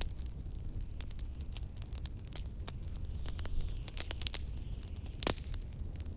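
Fireplace crackling with frequent sharp pops, one louder pop about five seconds in, over a steady low rumble of blizzard wind.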